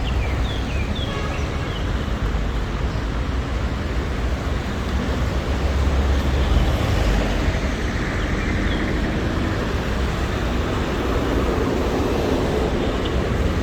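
Street traffic: a steady wash of vehicles passing with a low engine rumble that swells briefly about halfway through. A few short high chirps sound in the first couple of seconds.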